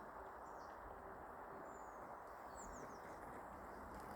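Quiet outdoor ambience: a steady low hiss with a few faint, distant bird chirps.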